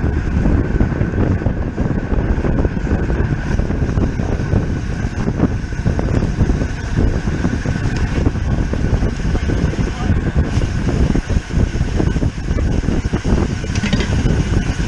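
Wind buffeting a bike-mounted camera's microphone as a road bicycle rides at racing speed.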